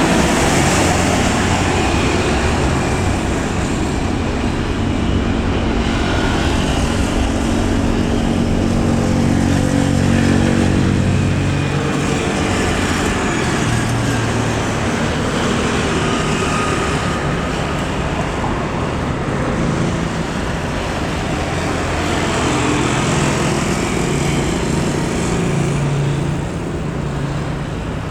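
Continuous engine noise, with low hums that slowly shift in pitch over a steady wash of noise.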